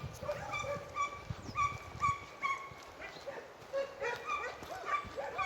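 A pack of Italian scent hounds (segugi) giving tongue on a hare's trail: short, overlapping yelping bays from several dogs at different pitches, a few a second.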